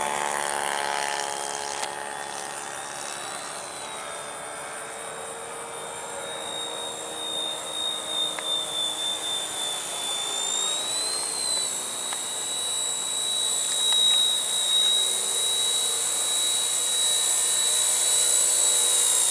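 RCERA Bell 206 micro RC helicopter in flight: a steady high whine from its small electric motors with the whir of the rotor. The pitch wavers slightly, lifts briefly about eleven seconds in, and the sound flutters in quick pulses for a moment around eight seconds in.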